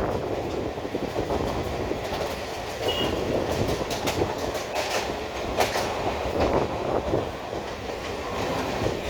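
Suburban electric local train heard from on board while running: a steady rumble of wheels on rails, with irregular clattering clicks as the wheels pass over rail joints.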